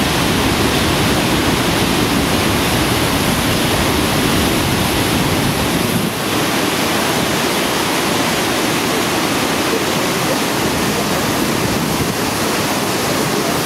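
Niagara Falls pouring: a loud, steady rush of falling water with no break except a brief dip about six seconds in.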